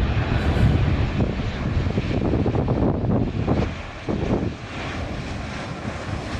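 Airliner engines running loud with a heavy, noisy rumble that eases somewhat about four and a half seconds in.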